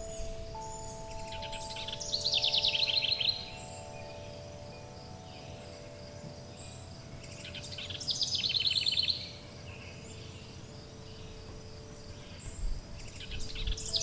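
Songbird singing a rapid trill of fast repeated notes, three times, over long, overlapping ringing wind chime tones and a steady background hiss.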